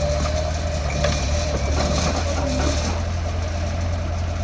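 Heavy diesel engine of earthmoving machinery idling steadily, with a few light knocks over it.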